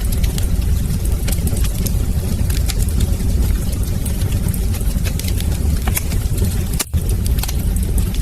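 Wood fire crackling in a fireplace: frequent sharp pops and snaps over a steady low rumble of burning flames. The sound cuts out for an instant about seven seconds in.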